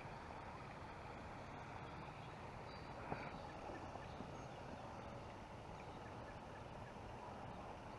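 Faint, steady outdoor background noise on the lake, with one light click about three seconds in.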